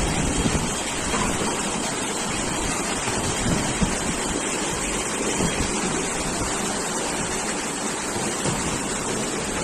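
Steady rushing noise of storm wind and flowing floodwater, with wind buffeting the microphone.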